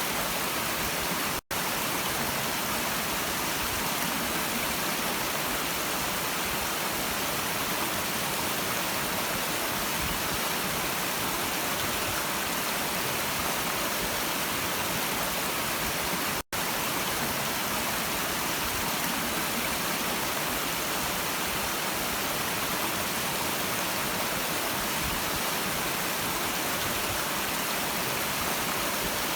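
Steady rushing of a stream's water, an even hiss with no changes, broken by two split-second dropouts to silence, one about a second and a half in and one about sixteen seconds in.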